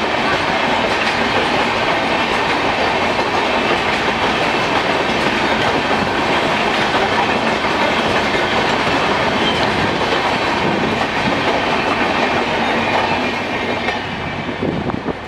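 A rail vehicle running along the track, with a steady rolling noise of wheels on rails and clickety-clack. It eases off a little near the end.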